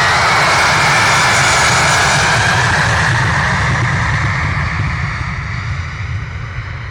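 Airbus A320 jet engines at high thrust during departure: a loud, steady jet noise that gradually fades over the last few seconds.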